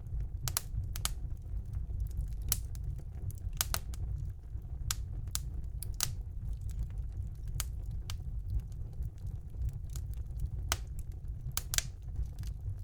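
Wood fire burning in a fireplace: a steady low rumble of the flames with sharp, irregular crackles and pops, some coming in quick pairs.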